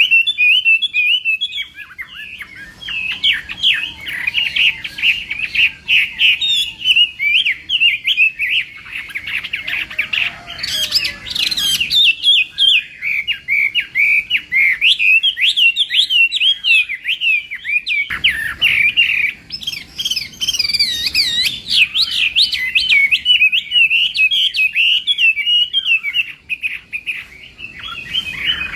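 Chinese hwamei (hoạ mi) singing: a long, fast run of varied whistled and warbled phrases with only brief pauses.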